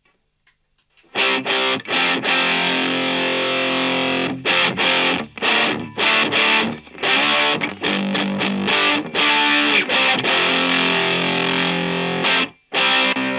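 Electric guitar played through a Fender Santa Ana Overdrive pedal: overdriven chords, starting about a second in and played in stop-start phrases with short, choked gaps, ending on a single ringing chord.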